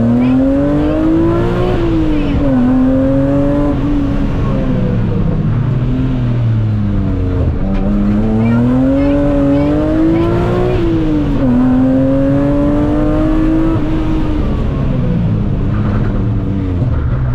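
BMW Compact M3 rally car's engine heard from inside the cabin under hard driving. The revs climb and fall back sharply several times as the car accelerates, shifts and slows, over a steady noise underneath.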